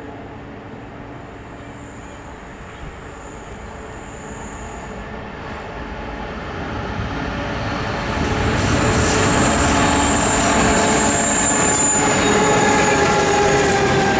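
Diesel-hauled grain train approaching and passing, its engines and wheels growing steadily louder and then jumping in level about eight seconds in. From then on a high, slightly falling wheel squeal sounds over the rumble of the wagons.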